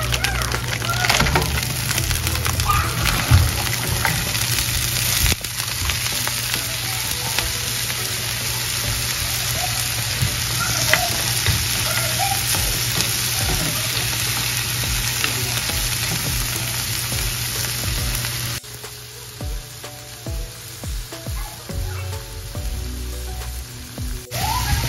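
Frozen seafood medley of mussels, clams, squid and shrimp sizzling loudly in hot oil in a frying pan, stirred with a wooden spatula; frozen seafood going into hot oil throws up steam. The sizzle turns quieter about 18 seconds in and picks up again near the end.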